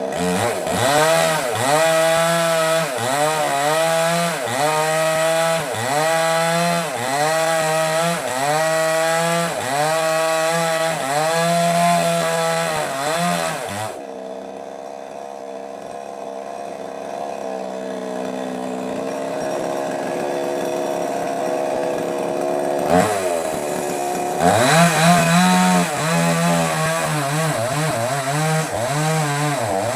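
Small petrol chainsaw cutting wood, its engine pitch dipping and recovering about once a second as the chain bites. About halfway through it drops to a lower, steady idle for several seconds, then revs up and cuts again near the end.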